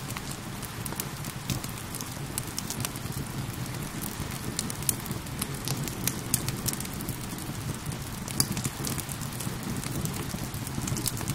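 Wood fire crackling with frequent sharp pops and snaps over a steady wash of falling rain, with a low, even rush underneath.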